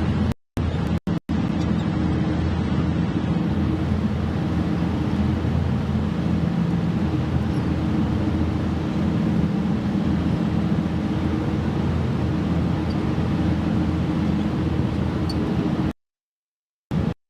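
Boat engine running steadily: a constant low hum under a rushing noise. The sound cuts out briefly twice just after the start and again near the end.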